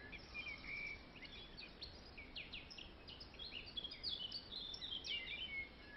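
Faint birdsong ambience: many short chirps and quick falling whistles from several small birds, over a soft background hiss.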